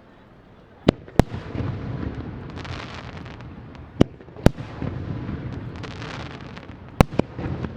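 Aerial fireworks shells bursting: sharp bangs in pairs about three seconds apart, a single one near the end, with a continuous rumble and crackle from the bursts in between.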